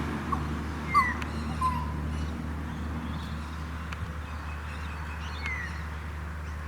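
Birds calling from the street: a few short chirps and quick falling whistled notes in the first two seconds, and one more falling note near the end, over a steady low hum.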